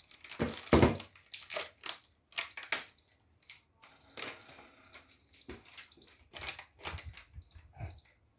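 Paper and packaging being handled: irregular crinkling and rustling, with a louder crunch about a second in.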